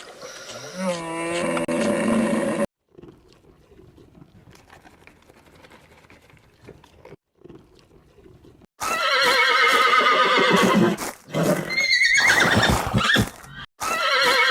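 Horse neighing: from about nine seconds in, several loud, quavering whinnies that fall in pitch, after a quiet stretch. Before that, a drawn-out lower animal call ends about two and a half seconds in.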